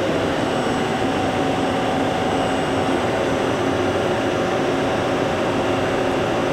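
Live-tool spindle on the upper turret of a Hardinge Conquest T42SP CNC lathe running steadily at 2,500 RPM under power: an even, quiet whir with faint steady tones and no knocks or changes in pitch.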